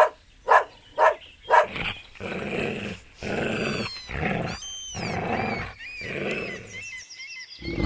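A dog barks four times in quick succession, then growls in a series of rough, drawn-out rumbles.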